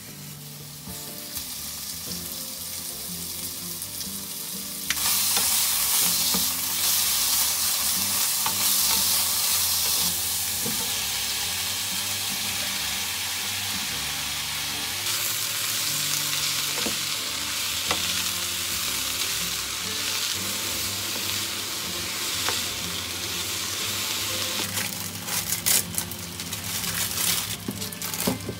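Food sizzling in a hot frying pan as it is stirred, with a steady hiss that jumps much louder about five seconds in. A few clicks near the end.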